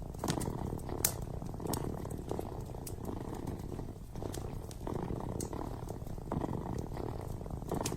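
A kitten purring steadily in repeating swells, with the scattered sharp crackles and pops of a wood fire burning in a fireplace.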